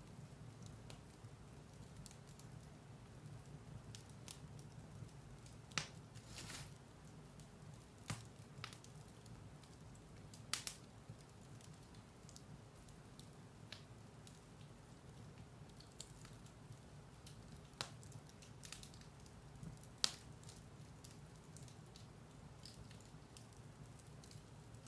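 Firewood burning in a fireplace, faint: a steady low rumble of flames with scattered sharp crackles and pops, about five of them louder than the rest.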